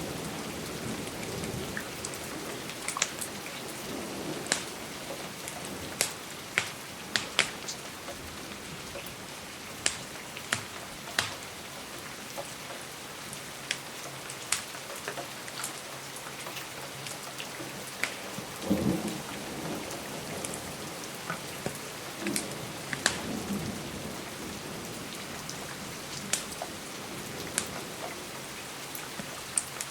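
Steady rain, with the irregular sharp pops and crackles of a wood fire scattered throughout. A soft low rumble of thunder comes a little past halfway.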